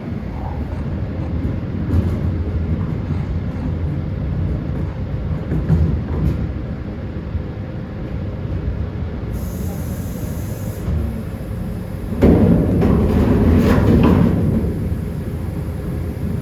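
Steady low rumble of heavy machinery and traffic, with a louder, rougher passage starting about twelve seconds in and easing off two seconds later.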